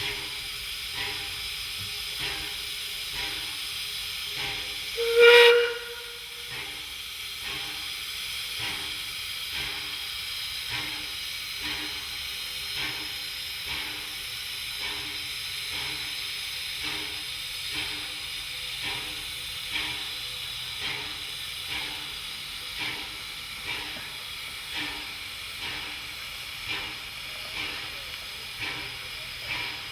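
Steam locomotive hissing steam, with a soft regular beat about once a second. About five seconds in, its steam whistle gives one short blast.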